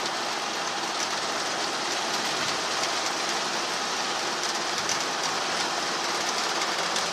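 Steady cabin noise of a helicopter in flight: an even, unchanging hiss of engine and rotor noise with a faint hum beneath it.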